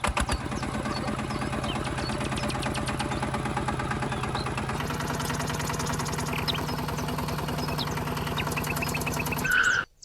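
Small motor of a DIY model machine running steadily with a fast ticking rattle. Its tone shifts about halfway through, and it stops suddenly near the end.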